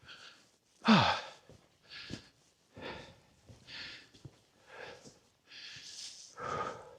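A hiker breathing hard, about one breath a second, from the effort of climbing a steep trail, with a voiced sigh about a second in.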